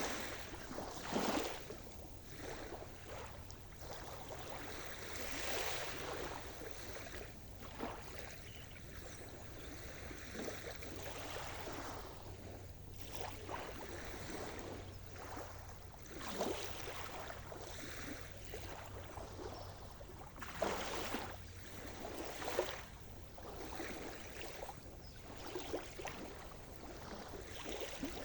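Sea surf: small waves washing in and splashing irregularly every second or two over a steady wash of water, with a faint low hum underneath for most of the stretch.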